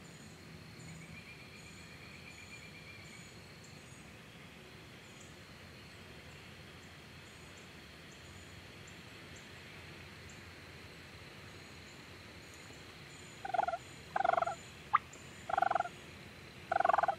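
Wild turkey gobblers gobbling close by, four loud gobbles in quick succession near the end, after a long stretch of quiet outdoor background.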